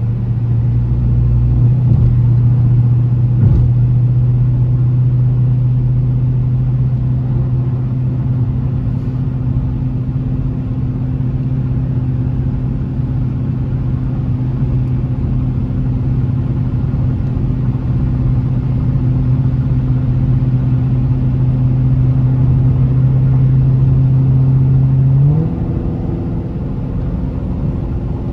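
Dodge Challenger Scat Pack's 392 (6.4-litre) Hemi V8 running at steady revs with an even drone; about three seconds before the end its pitch steps up and it gets slightly quieter.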